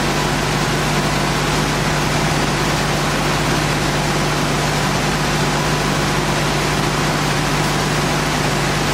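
Workshop machinery running steadily: an even hiss with a constant low hum, unchanging throughout.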